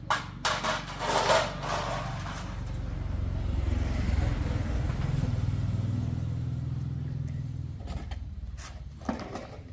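Motorcycle engine running for about five seconds, swelling and then slowly fading, after a few knocks and clicks in the first two seconds.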